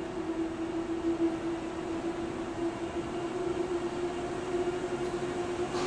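Electric commuter train at the station platform giving a steady electrical hum, one constant tone over a rushing noise. A short sharp click comes near the end.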